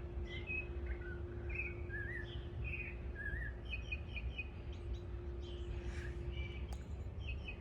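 A bird singing a varied string of short, high chirping phrases, some notes rising and some falling. The phrases come thickly for the first four seconds, then more sparsely, over a steady low hum.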